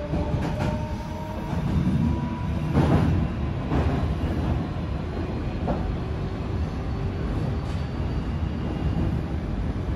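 Running noise inside a Meitetsu electric train crossing a steel truss bridge: a steady rumble of wheels on rail, with a few clacks from rail joints and a faint whine in the first couple of seconds.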